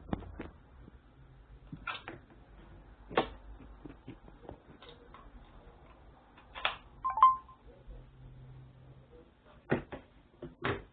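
Sparse, irregularly spaced knocks and clicks over a faint low hum, with a brief short tone about seven seconds in.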